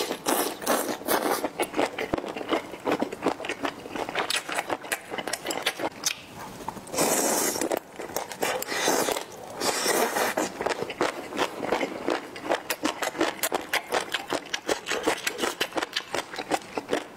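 Close-miked eating of a chili-oil dish of intestines, duck feet and green peppers: dense, irregular wet chewing clicks and crunches. A longer slurp, food sucked in off the chopsticks, comes about seven seconds in.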